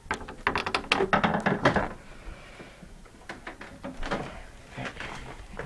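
Clatter of knocks and clicks, dense for about two seconds and then scattered: the hood of a 1974 Arctic Cat Panther snowmobile being unlatched and opened by hand.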